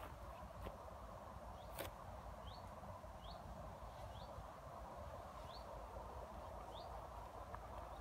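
A small bird gives a short, high, rising call five times, roughly once a second, over a steady background rumble. There is a single sharp click about two seconds in.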